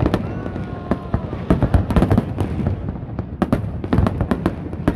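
Fireworks display: shells bursting in a fast, irregular series of loud bangs, some bunched close together.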